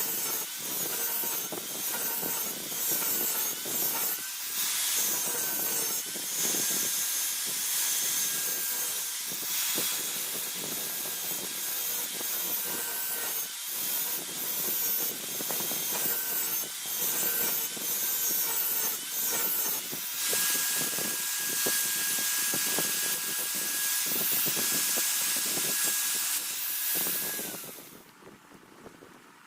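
Electric grinder grinding a steel dao blade made from car leaf-spring steel: a steady whine under rough, uneven scraping. The whine drops slightly and the sound stops near the end as the grinder is switched off.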